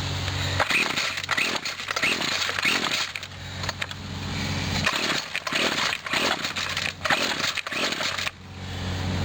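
1997 Husqvarna 24cc two-stroke string trimmer being pull-started over and over, its recoil starter rope pulled about twice a second, with the engine turning over but not catching. The owner suspects he may have flooded it.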